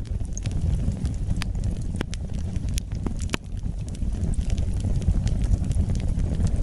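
Wood fire burning: a steady low rumble of flames with scattered sharp crackles and pops, a few louder pops in the first half.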